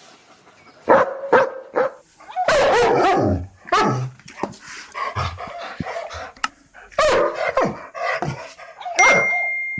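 Big guard dogs barking angrily, a string of loud barks from about a second in, with a longer run of barking around three seconds in. A steady high tone comes in abruptly near the end.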